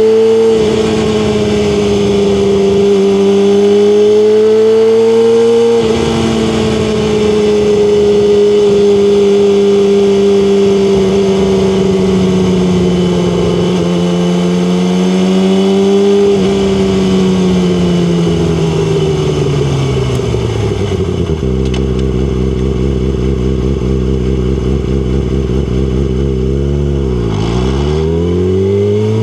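Yamaha R6 sport bike's inline-four engine running at high revs with a few brief dips, then dropping as the bike slows. It idles low and steady for several seconds, and the revs climb again near the end.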